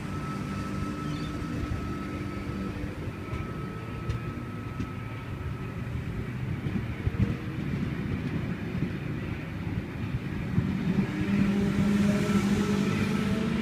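V-set double-deck electric intercity train pulling away from the platform: a steady hum and rumble of the wheels on the rails. It grows louder in the last few seconds, with a hum rising slightly in pitch as the train gathers speed.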